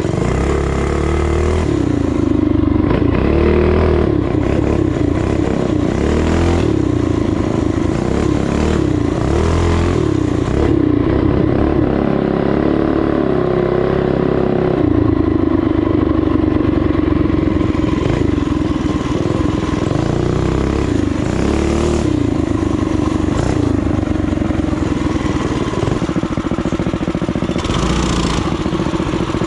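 Small single-cylinder four-stroke off-road bike engines running under way, the revs rising and falling as the throttle is worked.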